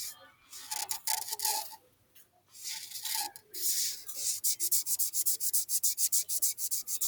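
Coloring strokes scratching across paper: irregular strokes at first, then quick back-and-forth scribbling, about five strokes a second, from about four seconds in.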